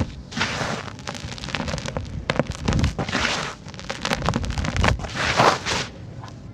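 Dry, dusty sand-cement chunks crumbling, with many small crackles and gritty swells of falling grit, the biggest about three and five and a half seconds in.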